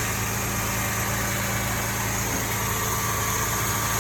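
2013 Chevrolet Impala's direct-injection V6 idling steadily with the alternator's electrical connector unplugged, so it runs on the battery alone: a test of a suspected failed alternator.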